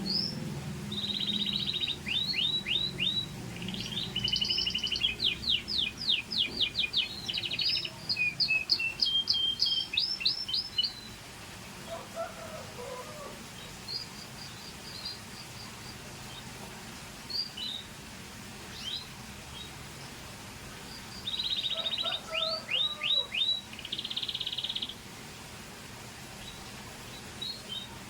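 Scotch Fancy canary singing: a long run of fast trills and rapidly repeated high notes for about ten seconds, then scattered short chirps, then another burst of trills about twenty seconds in.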